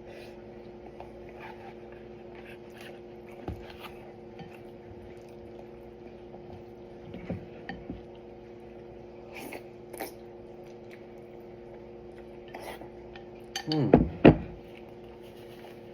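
A spoon and chopsticks clinking and scraping against a bowl while eating, in scattered light taps, with a louder cluster of knocks about two seconds before the end. A steady low hum runs underneath.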